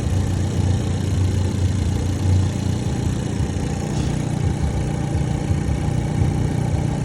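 2019 Hyundai Veloster N's newly installed 2.0-litre turbocharged four-cylinder engine idling steadily on its first startup.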